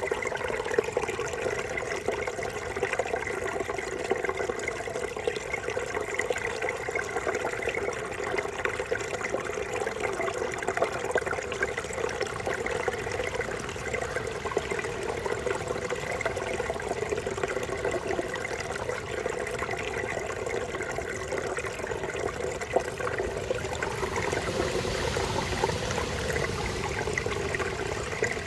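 Small forest brook babbling and gurgling steadily, with no let-up.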